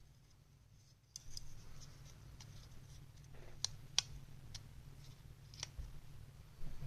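Light clicks and taps of a laptop CPU fan and its metal heatsink parts being handled and fitted against each other, a few sharp ones about halfway through, over a low steady hum.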